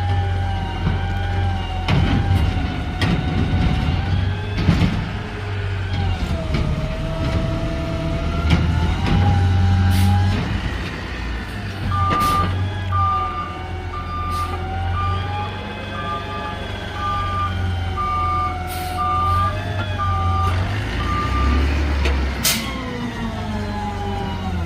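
Garbage truck engine running, its pitch rising and falling, with sharp knocks several times. From about halfway the truck's reversing alarm beeps about once a second, stopping shortly before the end.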